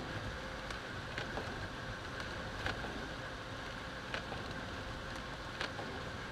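Lada Niva (VAZ-2121) driving: steady engine and road noise heard from inside the car, with a light click about every second and a half.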